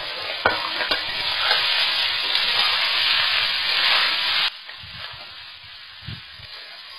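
Rice and vegetables sizzling in hot oil in a steel kadai as boiled rice is tipped in and tossed with a spatula, with a couple of sharp knocks of the spatula on the pan in the first second. About four and a half seconds in the sizzle drops off suddenly to a much quieter hiss with a few soft knocks of stirring.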